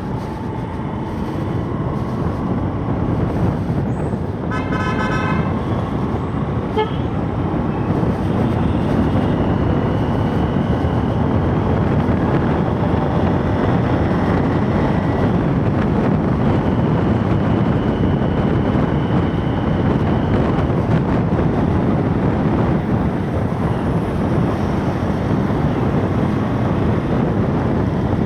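Steady wind and road noise from riding a motorcycle in traffic, with a vehicle horn honking briefly about five seconds in.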